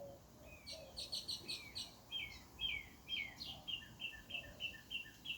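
Songbirds chirping and singing. About a second in comes a quick run of chirps. Around the middle it turns to downward-slurred notes, and then to an even series of short notes, about three a second.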